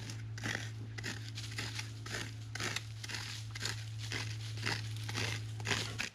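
Repeated rasping, crunching strokes, about two a second, over a steady low hum; both cut off abruptly at the end.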